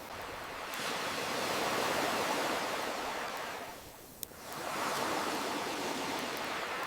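Ocean waves surging and washing back, swelling twice, with a single sharp pop from a crackling wood fire about four seconds in.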